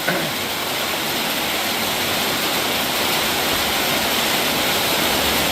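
Heavy rain pouring down steadily, a dense even hiss with water streaming off the roof.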